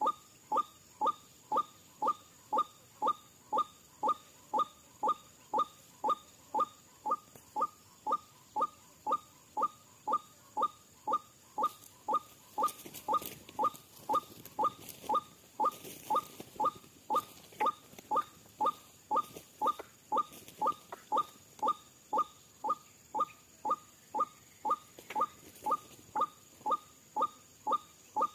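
Recorded lure call of a white-breasted waterhen (ruak-ruak): a short note falling slightly in pitch, repeated steadily about twice a second.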